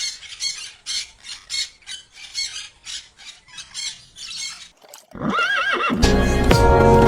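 A run of short animal calls, about two a second, then a higher wavering call about five seconds in. Music starts about a second later.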